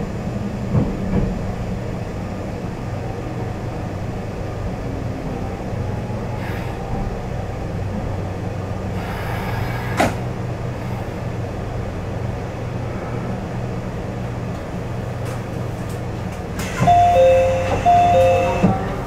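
JR Central HC85 hybrid diesel-electric train running with a steady low drone, one click about halfway through, and a two-note chime sounding twice near the end.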